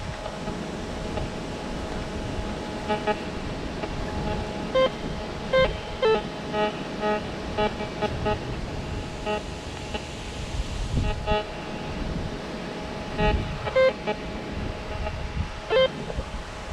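Metal detector giving many short target beeps at a few different pitches, coming irregularly as it is swept over ground full of metal signals, over steady wind noise.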